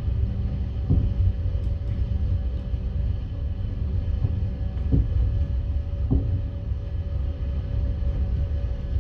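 Steady low rumble and hum inside a passenger train carriage, with three short knocks about one, five and six seconds in.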